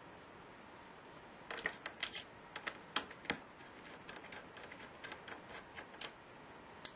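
Irregular run of light, sharp clicks and taps, starting about one and a half seconds in, from parts of a Lenovo Y570 laptop being handled during disassembly.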